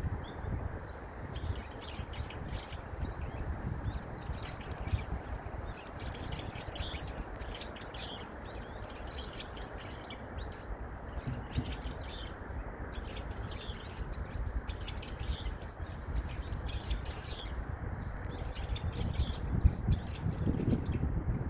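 Small songbirds chirping, many short high calls one after another, over a steady low rumble that swells near the end.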